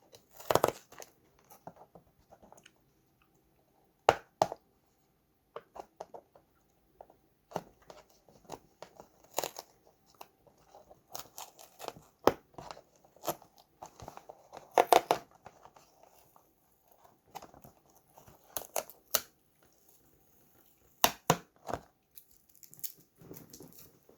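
Irregular handling noises of a toy minicar and its plastic packaging: scattered sharp clicks, crinkling and tearing with short quiet gaps between them.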